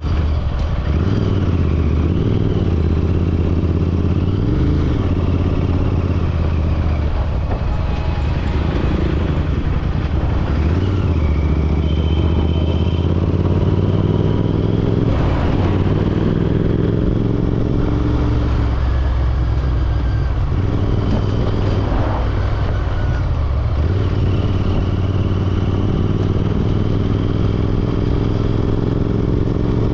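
Royal Enfield Continental GT650's 650 cc parallel-twin engine running under way. Its pitch climbs and drops back several times as the bike accelerates and shifts gear.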